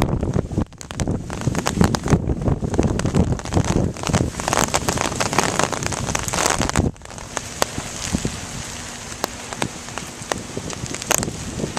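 Heavy rain pouring down, with many sharp drops striking close by; about seven seconds in it abruptly becomes quieter and steadier.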